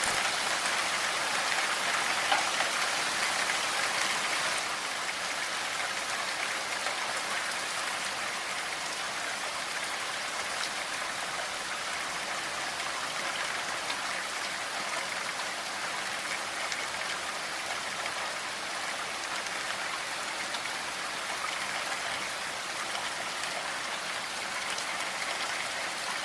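Steady rainfall, a dense even hiss of drops with faint scattered patters, slightly louder for the first few seconds and then settling to a constant level.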